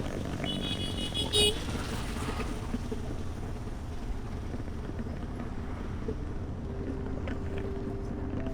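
Steady rumble of road traffic heard on a motorbike ride, with a vehicle horn honking briefly about a second in.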